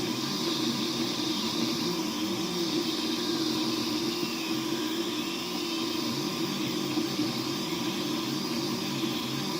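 3D printer running: its motors hum in short, shifting tones as the head moves, over a steady hiss.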